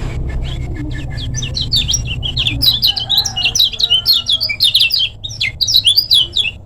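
Kecial kuning white-eye singing a fast, dense run of short high chirps and trills, cutting off suddenly near the end. A low rumble lies under the first half.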